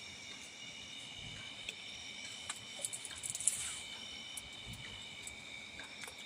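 A steady chorus of insects, several high-pitched trills sounding at once. A cluster of soft clicks and rustles comes a little past the middle.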